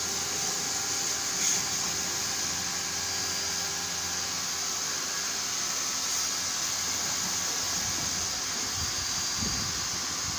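Steady mechanical hiss with a faint hum underneath, with some low uneven rumbling near the end.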